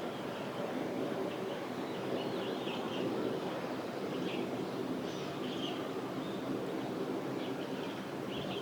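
Steady low outdoor background noise along a small urban river, with short, high bird chirps every second or two.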